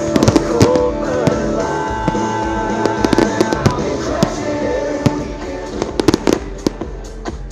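Aerial fireworks bursting in clusters of sharp bangs and crackles, densest about half a second in, around three seconds and around six seconds, over a playing music track.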